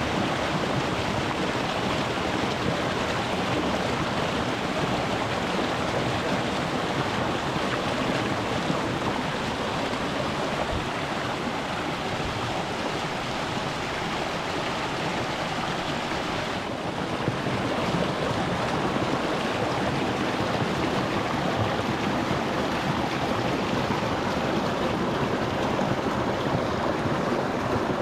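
Shallow rocky mountain stream flowing over stones: a steady, even rush of running water.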